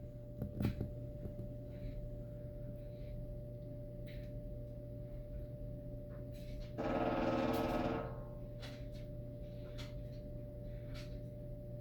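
A woodpecker drumming on a metal satellite dish: one rapid roll of strikes about a second long, partway through, with a couple of single taps near the start. The owner wonders whether the drumming is a mating call.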